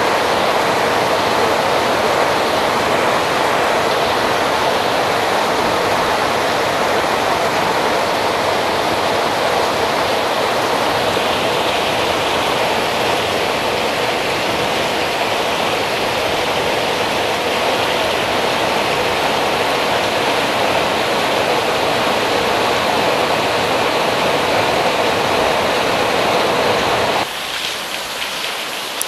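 Heavy rain pouring down in a dense, steady hiss. About two seconds before the end the sound drops abruptly, becoming quieter and thinner.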